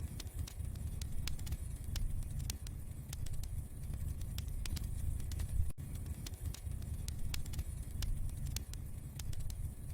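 Wood fire burning in a fireplace: a steady low rumble of flames with irregular sharp crackles and pops from the burning logs. There is a momentary dropout about six seconds in.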